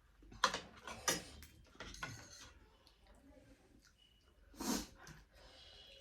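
Close-up eating noises: several short, sudden slurping and smacking sounds of noodles being eaten, the loudest in the first second or so.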